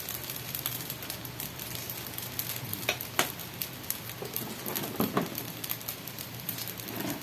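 Chicken pieces sizzling as they fry in a pan, with a few sharp clicks of a utensil against the pan about three seconds in and again near five seconds.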